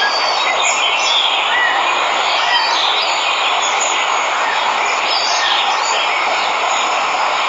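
Steady rush of a waterfall, with many birds chirping and calling over it.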